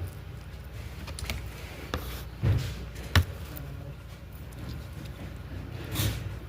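A few short clicks and knocks, the sharpest about three seconds in, over a steady low hum.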